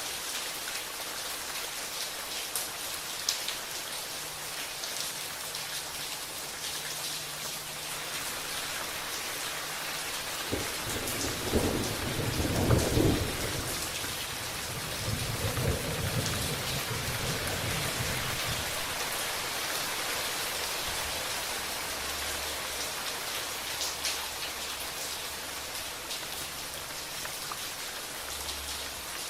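Steady rain falling, with a roll of thunder that breaks about a third of the way in, peaks within a couple of seconds, swells again more weakly and rumbles away.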